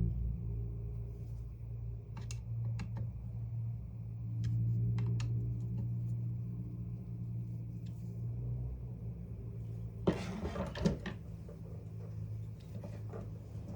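Screws on a power tool's housing being tightened and the parts handled: scattered light clicks, then a louder clatter about ten seconds in, over a steady low hum.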